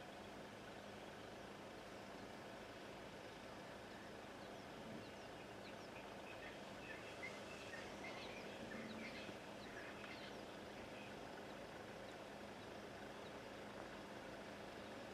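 Quiet bush ambience: a steady low hiss with a faint hum, and a flurry of faint bird chirps from about six to ten seconds in.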